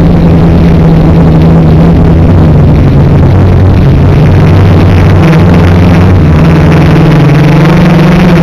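Quadcopter's electric motors and propellers humming steadily, their pitch shifting and rising slightly about six seconds in as the throttle changes.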